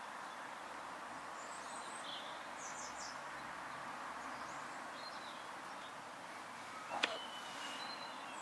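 Short, high-pitched squeaks from the video camera's own mechanism over a steady hiss, with a sharp click about seven seconds in followed by a thin high whine.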